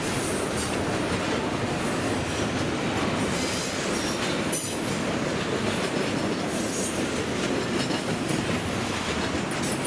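Norfolk Southern intermodal freight train rolling past: a steady rumble and rattle of wheels on rail, with brief high-pitched squeals every second or two.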